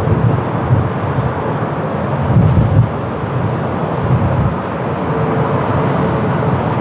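Strong wind buffeting the microphone as a loud, low, fluctuating rumble, swelling about two and a half seconds in, with jet aircraft engine noise beneath it.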